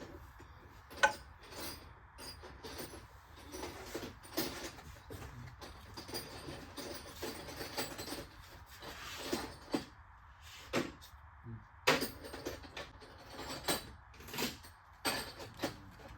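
Hand tools working on a starter bolt under a car: metal clinks, knocks and scraping of a wrench and socket against the bolt and the car's underside. The knocks are irregular, the sharpest about a second in and again near twelve seconds.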